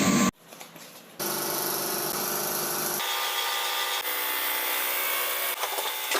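A power tool or workshop machine running steadily, cut together from several clips so that the sound changes abruptly a few times.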